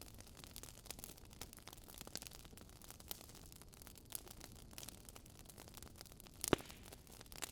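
Wood fire crackling: a steady scatter of small sharp crackles, with one louder pop near the end.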